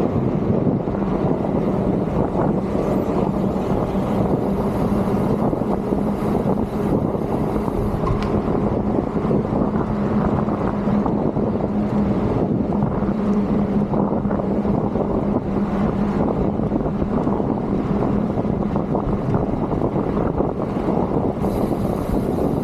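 Wind rushing over the microphone of a moving rider's camera, a steady loud roar mixed with road noise and a faint constant hum.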